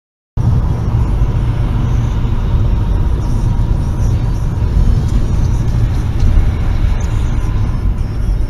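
Car road and engine noise picked up by a dash camera inside the vehicle: a steady low rumble that starts abruptly about a third of a second in.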